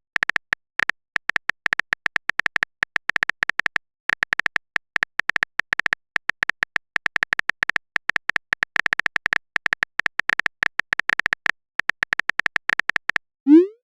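Phone keyboard typing sound effect: fast, irregular taps, each a short high click, with a couple of brief pauses. About 13.5 seconds in, a short rising swoosh: the message-sent sound.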